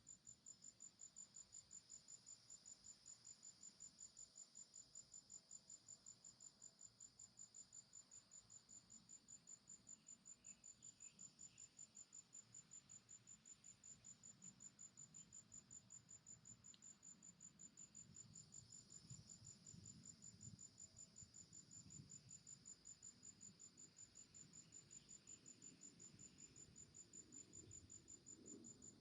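A faint forest insect, such as a cricket, chirping in a steady, rapid, evenly spaced high-pitched rhythm, with a fainter hum of other insects beneath it.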